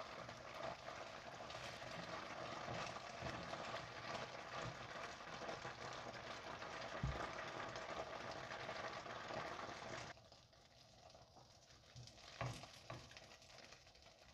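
Blocks of medium-firm tofu sizzling steadily as they pan-fry in hot oil in a wok, with a few light knocks against the pan. The sizzle drops off abruptly about ten seconds in.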